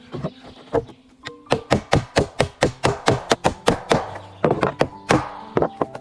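A quick series of sharp knocks, a few at first and then about four or five a second from about a second and a half in, over background music with held notes.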